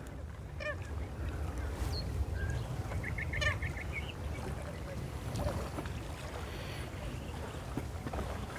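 Waterbirds calling: a short burst of rapid notes near the start, a brief whistle, then a quicker run of high notes about three seconds in, over a steady low rumble.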